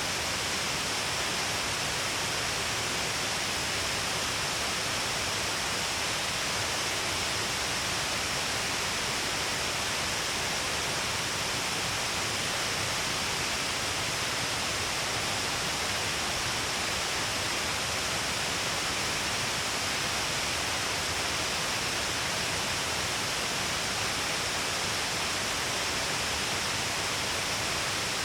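Shiraito Falls, a broad curtain of many falls along a cliff, sending a heavy volume of water down in a steady, unbroken rush.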